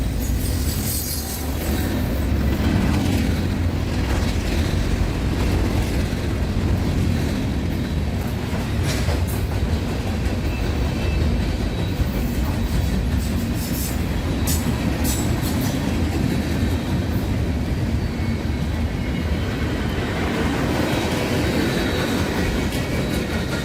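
Freight train rolling past: a steady, loud rumble of steel wheels on rail, broken by sharp clicks as the wheels cross rail joints.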